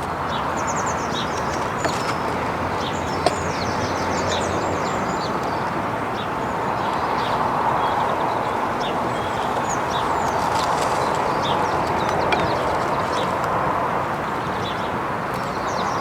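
Small birds chirping over a steady outdoor background noise, with a few sharp small clicks, about two seconds in, three seconds in and near twelve seconds.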